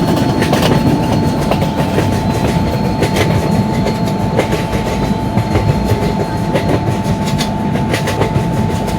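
Train passing at speed: a steady heavy rumble of wagons, with the wheels clacking sharply and irregularly over rail joints.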